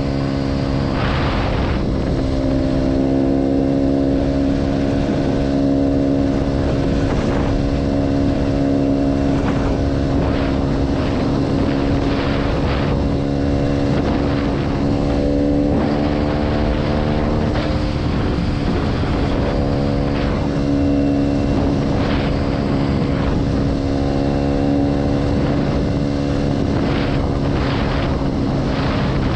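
Motorcycle engine running through a new aftermarket GPR exhaust, held at fairly steady revs, its pitch easing slightly up and down around the middle.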